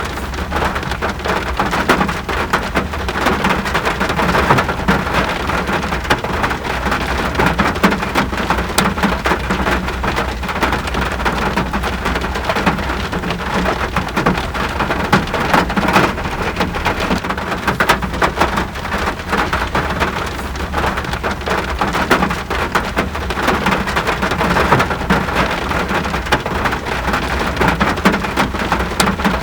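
Steady rain: a dense, continuous patter of drops on surfaces, with a constant deep rumble underneath.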